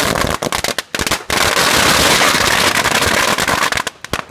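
A string of firecrackers going off in a rapid, dense crackle of many small bangs, loud throughout, with short breaks about a second in and near the end.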